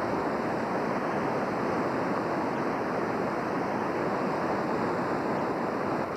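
The flooding North Fork Wilson River running high: a steady, unbroken rush of fast water.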